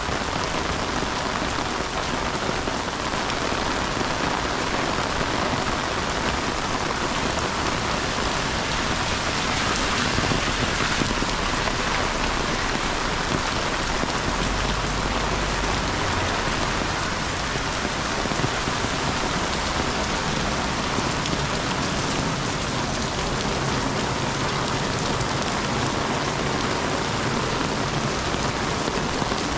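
Steady rain falling, a dense even hiss throughout, with a brief low rumble about halfway through.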